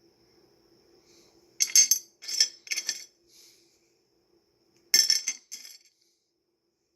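Pieces of rough opal clinking together as they are handled, in two bursts of quick clicks: a run of three clusters a couple of seconds in, then two more about five seconds in.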